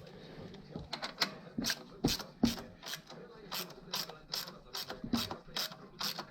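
Ratchet wrench clicking as it is worked back and forth on a bolt: a row of sharp clicks, uneven at first, then settling into about three a second.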